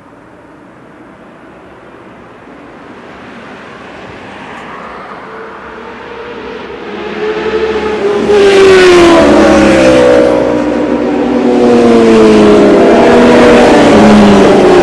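Motorcycle engine growing steadily louder as it approaches over about eight seconds, then very loud, its pitch falling and rising again as it revs.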